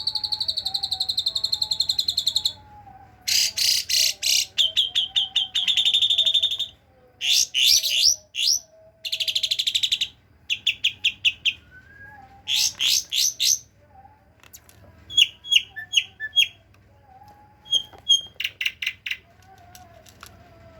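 Asian pied starling (jalak suren) singing mimicked cililin and kapas tembak phrases: fast high trills and rapid runs of sharp repeated notes in bursts of a second or two, separated by short pauses, with a faint wavering lower warble underneath.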